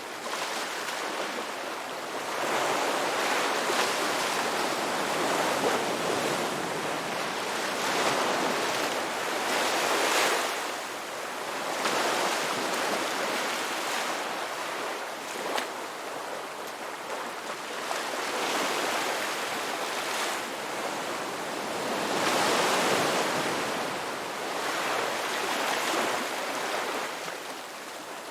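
Ocean waves breaking on a beach, a steady wash of surf that swells and falls back every few seconds as each wave comes in.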